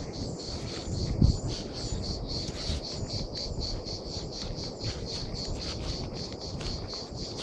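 Insects chirping in a steady high pulsing trill, about four pulses a second, over a low rumble, with a single thump a little over a second in.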